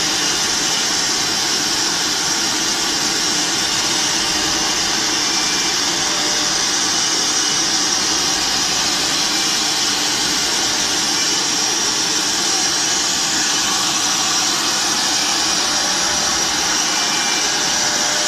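A multi-head CNC router running at a steady, even level, with a high hiss over its machine noise.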